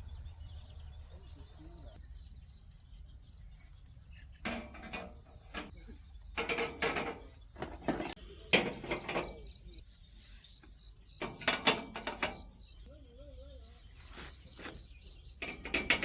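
Insects chirring steadily in the background, with irregular clusters of short knocks and scrapes from handling something nearby.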